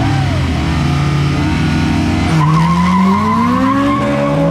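A car engine revving hard under full acceleration: its pitch climbs, drops at a gear change about two and a half seconds in, then climbs again. A high, steady squeal runs over it through the second half.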